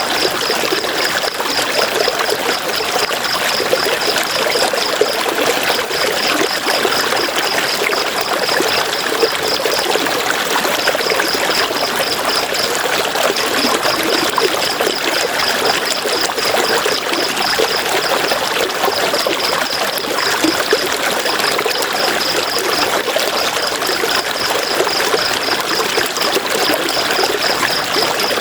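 River water rushing and splashing over rocks in a steady, full wash. Over it runs a high, fast-pulsing trill, in runs of a few seconds with short breaks.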